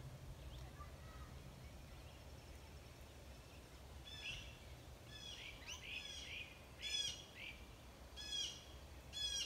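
A songbird singing from about four seconds in: repeated phrases of quick, short, sharply falling notes, over a faint low rumble.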